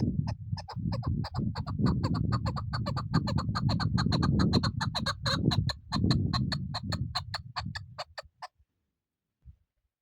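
Chukar partridge calling: a long, rapid, even series of clucking 'chuk' notes, several a second, over a steady low rumble. It stops abruptly shortly before the end.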